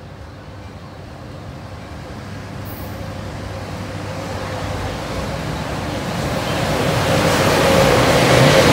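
NJ Transit commuter train approaching and rolling in alongside the platform, its rumble growing steadily louder over several seconds, with a steady whine joining in near the end.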